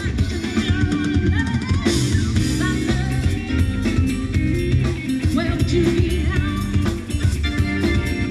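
Live band playing a rock song, with drum kit kick and snare strikes over a steady bass line.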